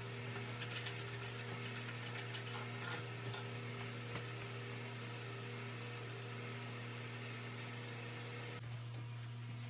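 A steady low mechanical hum, like a running fan motor, with a few faint light clicks in the first few seconds. The higher tones of the hum drop out near the end, leaving only the lowest drone.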